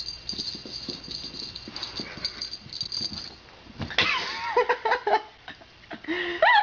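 A pet animal's short, high whining calls whose pitch bends up and down, starting about four seconds in, after a few light knocks and rustles.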